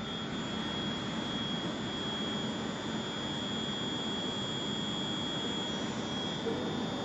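Electric passenger train running past the platform: a steady rushing noise with a thin high whine over it that fades about six seconds in.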